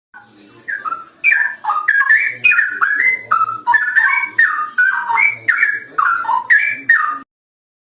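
Straw-headed bulbul (cucak rowo) singing loudly: one long run of rich, bubbling whistled notes that glide up and down, stopping short near the end.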